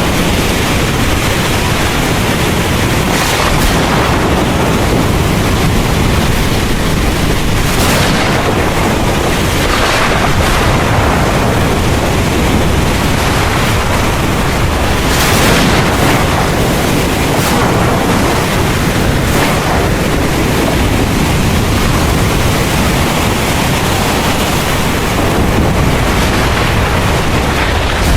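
Heavy rain falling steadily, a dense loud hiss with a strong low rumble beneath it. It swells briefly louder about every few seconds.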